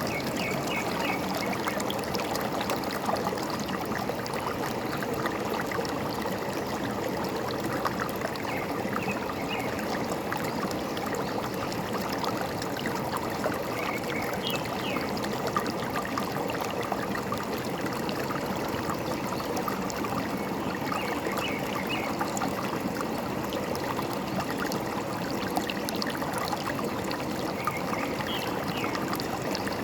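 Forest stream running steadily over stones, with short bird chirps every several seconds.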